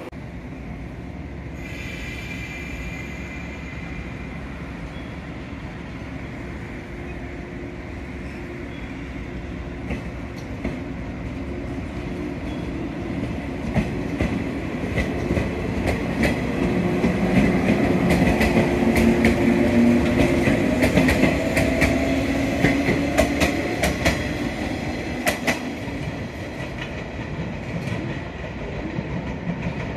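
Electric train on the Sanyo Main Line moving through the station. Its wheels clack over the rail joints as it grows louder to a peak and then eases off, with a motor hum rising slowly in pitch.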